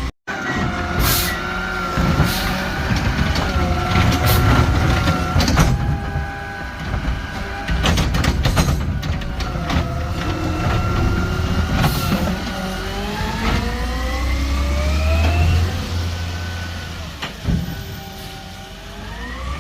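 Garbage truck engine running and revving up and down, its pitch climbing twice in the second half. Sharp metallic bangs and clanks sound over it every few seconds.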